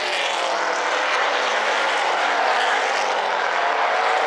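Pack of Super Late Model stock cars racing on a short oval, several V8 engines running at speed together in a steady mixed engine sound with pitches sliding up and down as cars pass.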